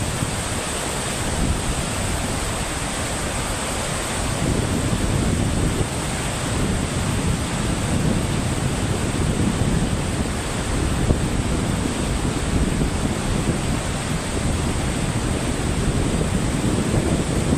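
Steady rushing noise with wind buffeting the microphone in uneven gusts.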